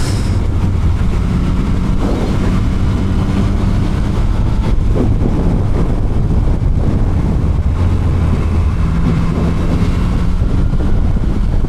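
Motorcycle engine running at a steady cruise, with wind rushing over a microphone inside the rider's helmet.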